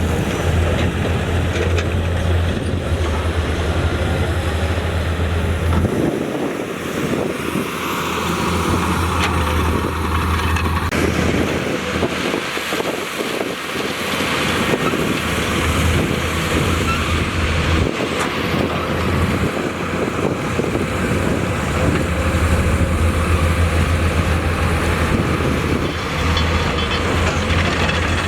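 Diesel engines of heavy earthmoving machinery running under load, with a steady low hum that weakens briefly twice in the middle.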